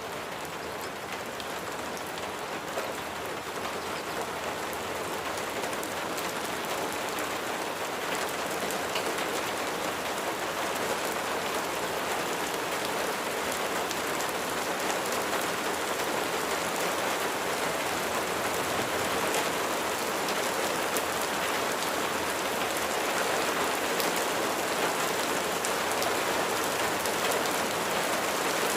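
Rain falling steadily, an even hiss with a fine patter of drops.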